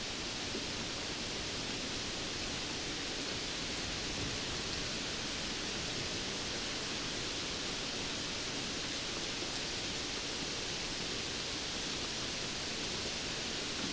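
Steady rainfall: a dense, even hiss of falling rain with a few faint drop ticks.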